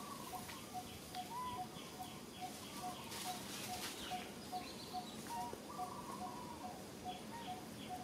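Birds calling: one bird repeats a short single-pitched note, a little over two notes a second, steadily, while another bird adds quick runs of higher notes now and then.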